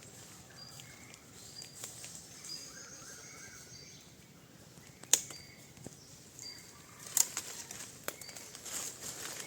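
Birds chirping outdoors in short, repeated high notes, with a few sharp clicks; the loudest comes about five seconds in and another about two seconds later.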